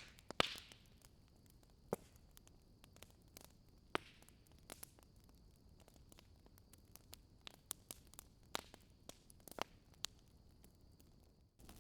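Wood fire crackling in a fireplace: irregular sharp pops and snaps over a faint hiss, the strongest about half a second in and again around two and four seconds. Near the end the background hiss suddenly grows louder.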